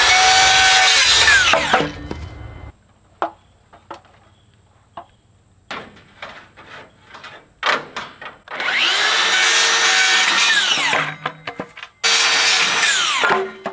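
Power saw spinning up, cutting through 2x6 lumber and whining down as the blade stops, three times, trimming the boards to length. Light knocks and clicks come between the cuts.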